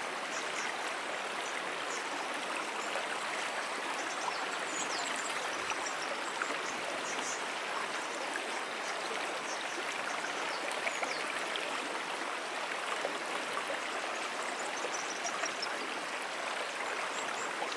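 A brook flowing steadily, an even rushing of water. Faint high chirps come through now and then.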